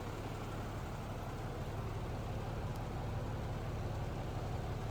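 Fire engine's diesel engine idling steadily, a low even drone.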